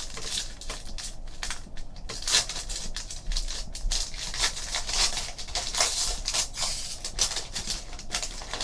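Crinkling and tearing of a trading-card pack's wrapper as it is opened, with the cards shuffled by hand: a dense run of small crackles and snaps.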